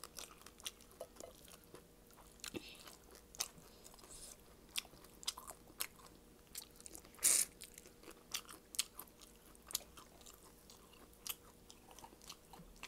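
Close-miked chewing and biting of shrimp, with irregular sharp crunches and wet clicks, the loudest crunch about seven seconds in.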